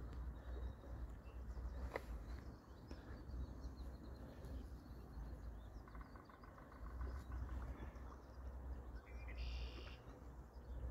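Birds calling over a low, uneven rumble of wind on the microphone: a quick trill about six seconds in and a short, higher call near the end.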